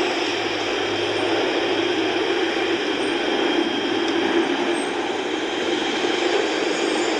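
Jet airliner engines making a loud, steady rushing noise that holds even throughout.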